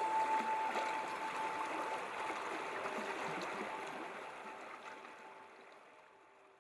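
Running water like a stream, a steady rushing that fades out gradually, with faint held musical tones under it.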